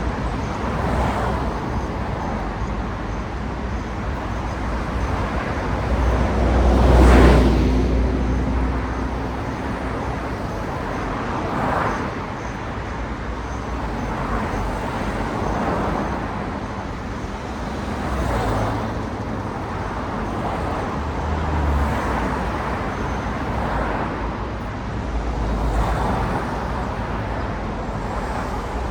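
Road traffic with cars passing one after another, each pass swelling and fading over the steady hiss of tyres. The loudest pass is about seven seconds in and carries a deep rumble.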